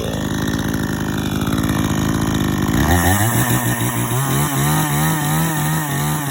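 Sportsman 20-inch 52 cc two-stroke gas chainsaw running, first at a low steady speed, then about three seconds in throttled up sharply and held at high revs.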